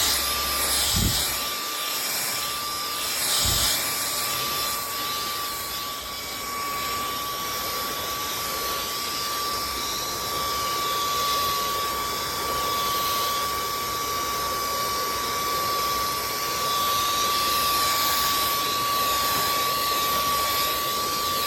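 Dyson cordless stick vacuum with a dust brush attachment running, a steady high whine over a constant rush of air. Two short low thumps come in the first few seconds.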